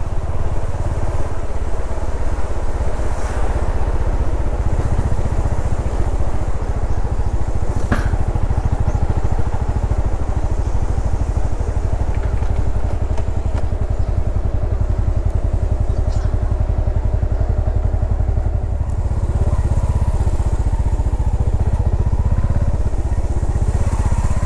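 Yamaha SR400's air-cooled single-cylinder four-stroke engine running at low speed with a steady, deep exhaust beat. It eases off briefly about two-thirds of the way through, then pulls again.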